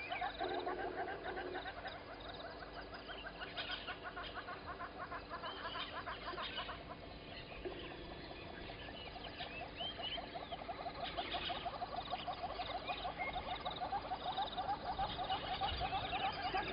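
Early-morning chorus of many frogs calling in dense, overlapping rapid trills, with birds chirping higher above them.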